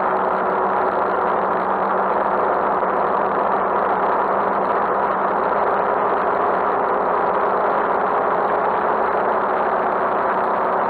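Motorcycle engine running at a steady pitch, heard close up from a handlebar-mounted camera over a constant rush of noise.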